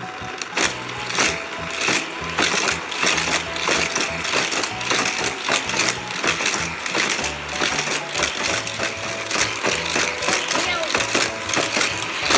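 Background music with a repeating bass line, over a rapid clatter of plastic clicks and knocks from Hot Wheels toy cars crashing and rattling along the Criss Cross Crash track.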